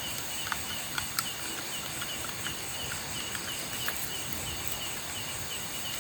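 Night insects in the forest: a steady high-pitched hum with a short chirp repeating about three times a second, and a few faint ticks.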